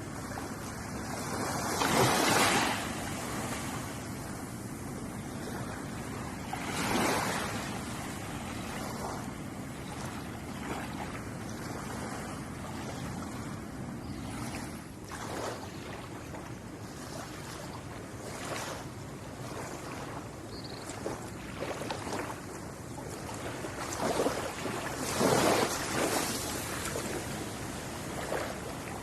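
Ocean waves breaking and washing onto a shore: a steady wash of surf, with a louder wave breaking about two seconds in, another around seven seconds, and a bigger one near the end.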